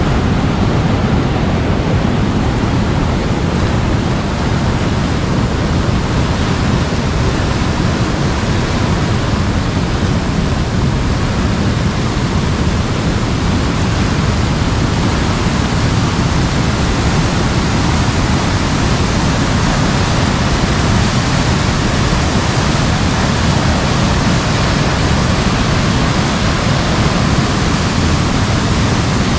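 Heavy rain falling, with rushing floodwater, making a loud, even hiss that never lets up.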